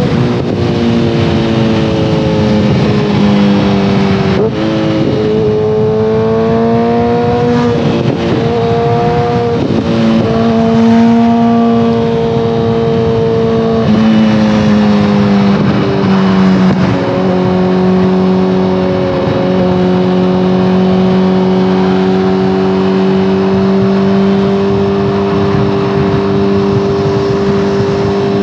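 2014 Kawasaki ZX-14R's inline-four engine through a full Brocks Alien Head 2 exhaust, under way: the revs climb and drop at several gear changes in the first half, then settle into a steady cruise.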